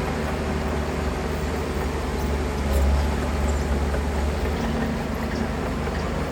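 Heavy diesel engine of earthmoving machinery running steadily under load, with a slight swell about three seconds in.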